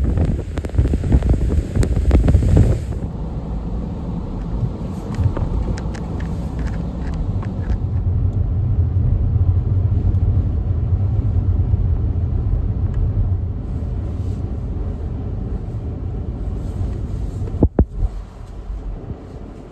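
Strong blizzard wind buffeting the microphone for the first few seconds, then a steadier low rumble under the wind, with a few sharp clicks near the end.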